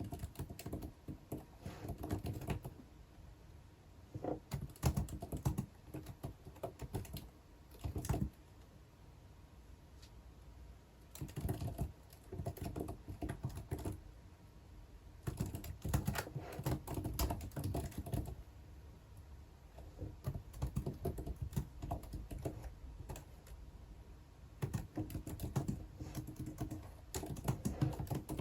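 Typing on a computer keyboard in bursts of one to three seconds, broken by short pauses.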